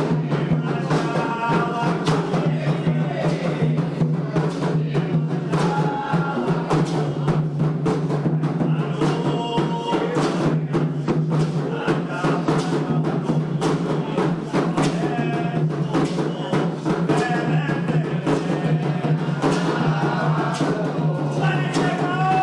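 Candomblé ritual music for Xangô: atabaque hand drums playing continuously, with voices singing over them.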